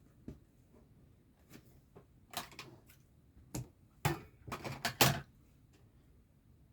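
Hands handling cross-stitch materials: a quick, uneven run of light clicks and rustles, loudest about five seconds in.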